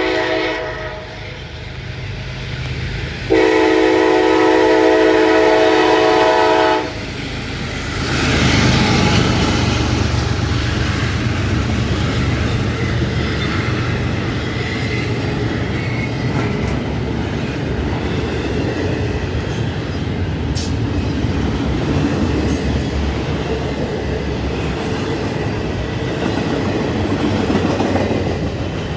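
Freight locomotive horn sounding a short blast, then a loud blast of about three seconds. From about 8 seconds in, the train passes at speed: a steady heavy rumble and wheel clatter, with a high screaming noise from ST70AH locomotive #8903 audible in the mix.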